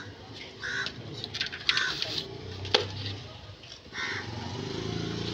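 A bird calling four times in short, separate calls, over faint background voices, with one sharp click near the middle.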